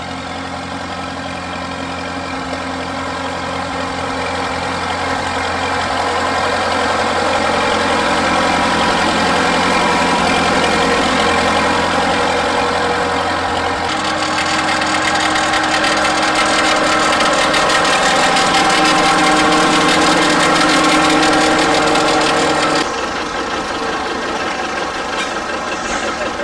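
Vintage tractor engines running at a steady speed, growing louder over the first several seconds as one draws near. The engine sound changes abruptly twice, about halfway through and near the end.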